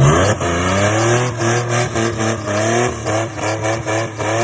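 V6 Ford Mustang engine revving hard in a burnout, its pitch climbing again and again, over the noise of a spinning, squealing rear tyre. With no limited-slip (posi) rear end, the open differential lets just one rear wheel spin.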